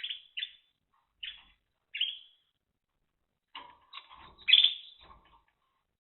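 Timbrado canary calling: a few short, separate chirps in the first two seconds, then after a pause a denser, louder cluster of notes about four to five seconds in, with a light rustle under it.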